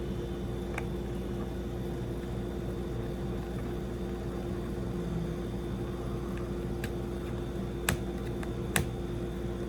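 Window air conditioner running with a steady hum and a held tone. A few sharp clicks come in the second half, two of them louder, about a second apart.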